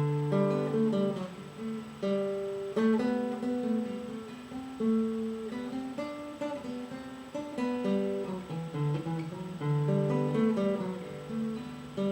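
Acoustic guitar playing the instrumental introduction to a traditional English folk song: picked and strummed chords ringing on, with a stronger chord attack about every two seconds.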